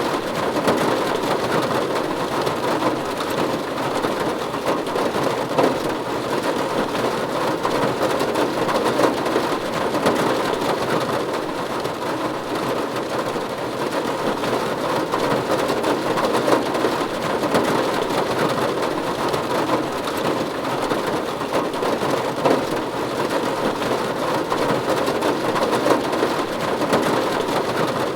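Steady, even rain falling on a roof, a dense patter of drops with no let-up.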